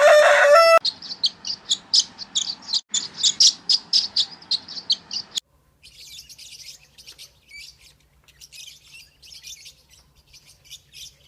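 The end of a rooster's crow, followed by a small bird chirping rapidly and high, about four or five chirps a second. About five seconds in, the sound cuts to fainter, scratchier chirping over a low hum.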